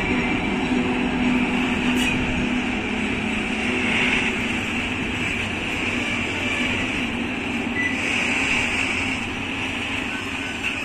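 Freight train of open coal wagons behind two EU07 electric locomotives rolling past, with a steady rumble and hiss of steel wheels on rail. A low hum fades out about two seconds in.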